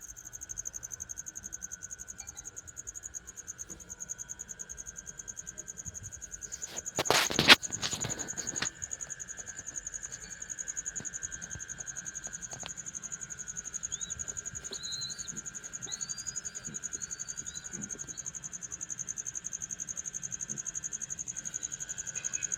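Crickets trilling steadily in a fast, even pulse with a high-pitched tone. A loud burst of rustling noise comes about seven seconds in and lasts about a second and a half, and a few faint short high chirps are heard around the middle.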